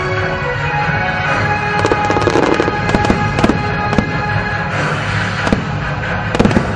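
Aerial fireworks going off in quick succession, several sharp bangs a second, over music playing.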